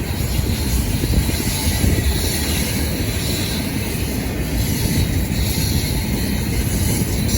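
Freight train cars rolling past on the track, a steady loud rumble of wheels on rail.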